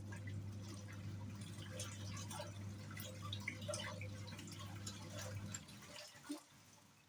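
Hisense 7.5 kg twin-tub washing machine's wash motor humming as the pulsator churns water and clothes, with splashing and dripping over it. The motor stops about five and a half seconds in.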